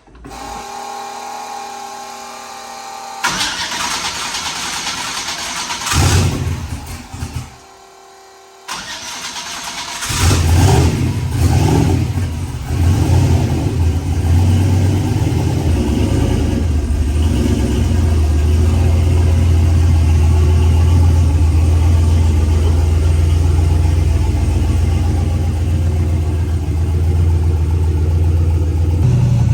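Turbocharged 5.3-litre LS V8 starting about ten seconds in, with an uneven surge in level just after it catches, then running at a steady idle.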